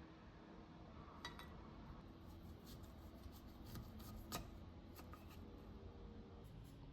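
Faint clinks and taps of kitchen utensils and dishes: a scattering of light knocks, the sharpest about four seconds in, over quiet room tone.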